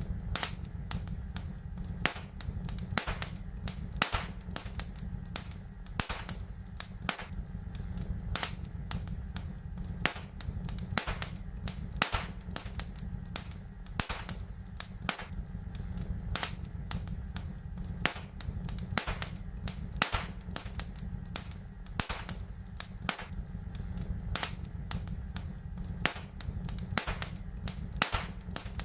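Wood fire crackling in a fireplace: irregular sharp pops and snaps, several a second, some much louder than others, over a steady low rumble.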